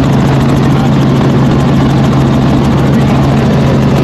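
Helicopter in flight: steady, loud engine and rotor noise with a constant low hum.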